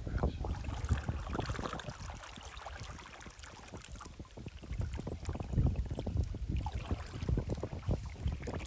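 Canoe paddling: irregular paddle strokes splashing in the water, with wind rumbling on the microphone.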